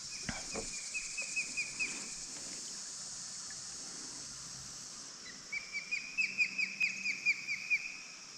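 A bird of prey calling: two runs of quick, high, whistled chirps, about eight notes and then about a dozen a few seconds later, over a steady high hiss of insects.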